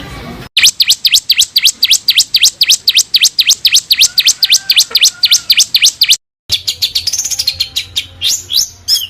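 Songbird singing a fast run of sharp, repeated sweeping notes, about five a second, high in pitch. The song cuts off abruptly twice in brief silences where recordings are spliced; after the second, a different rapid twittering follows.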